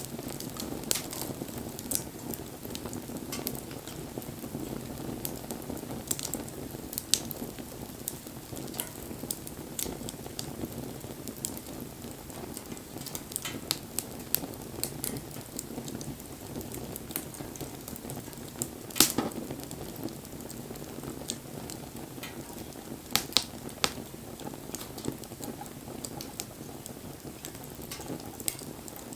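Wood bonfire burning: a steady low rush of flames with frequent sharp crackles and pops, the loudest pop about two-thirds of the way through.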